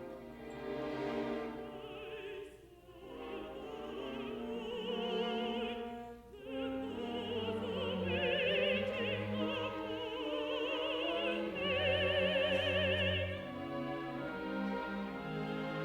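Contralto singing with a wide vibrato over a full symphony orchestra, in long sustained phrases with short breaths between them.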